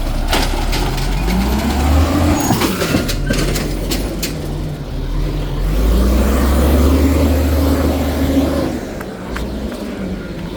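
Garbage truck's diesel engine revving hard twice while the packer compacts trash: the pitch climbs and falls back once, then climbs again and holds for a couple of seconds before dropping. A few knocks are heard in the first half.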